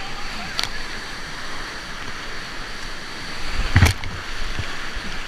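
Whitewater rapids rushing steadily at high flow, with a sharp knock about four seconds in.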